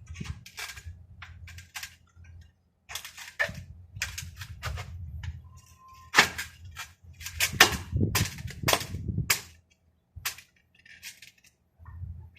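Irregular sharp clicks and knocks from hand work on a sliding window, coming in quick clusters and loudest past the middle, over a low rumble.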